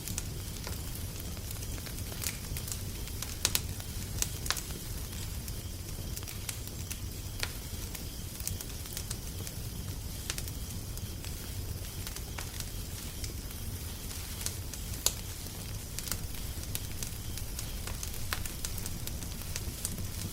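Fire crackling, with irregular sharp pops and snaps over a low steady rumble.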